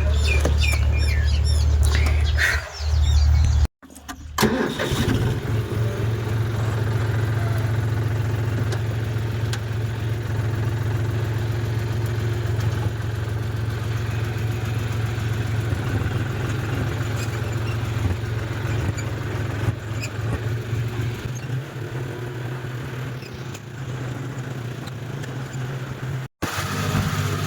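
Tractor's diesel engine running steadily. The sound cuts out abruptly about four seconds in and again near the end.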